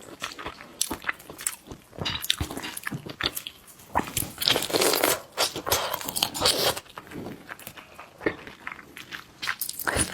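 Chewing and crunching of spicy sauce shrimp: irregular crisp crunches and wet clicks, thickest in the middle.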